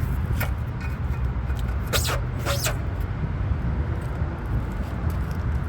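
Low steady rumble with a few sharp metallic clinks, two of them close together about two seconds in, as the spare tire's under-body hoist is cranked up with a tire iron.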